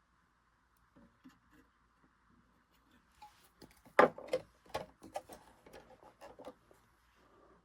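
A string of small clicks and taps, the loudest about four seconds in, from hands handling a sewing machine and its parts while oiling it.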